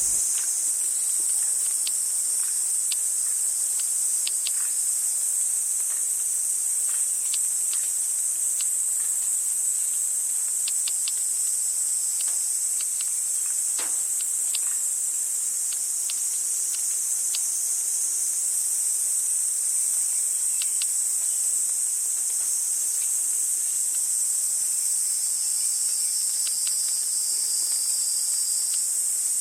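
A steady, high-pitched insect chorus droning without a break, with faint short ticks or chirps scattered through it.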